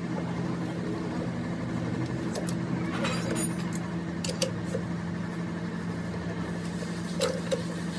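A steady low mechanical hum, like an engine running, with a few short sharp metallic clicks over it; the loudest click comes about seven seconds in.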